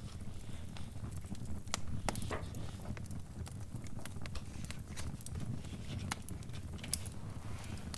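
Crackling fire: a steady low rumble of burning with irregular sharp pops and snaps, one sharper snap near the end.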